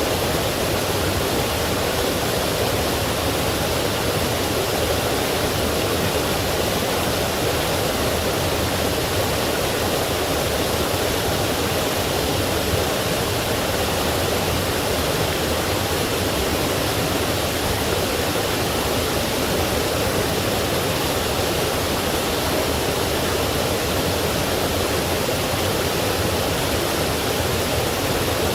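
Forest stream and small waterfall flowing, a steady rushing of water with no change.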